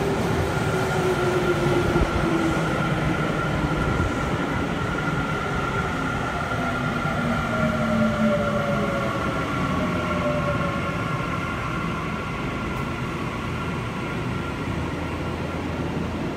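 Electric commuter train pulling into the station, its motors whining in several tones that slowly fall in pitch as it slows, over a steady rumble of wheels on rails.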